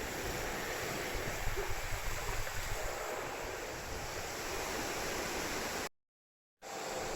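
Strong wind blowing steadily and buffeting the microphone, cut off abruptly by a brief dead silence about six seconds in before it resumes.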